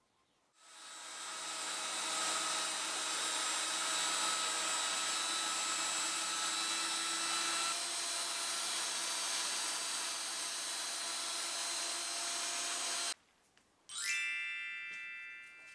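An electric power tool motor running steadily with a high whine for about twelve seconds, then stopping abruptly. A moment later it is briefly started again, winding up and then running down.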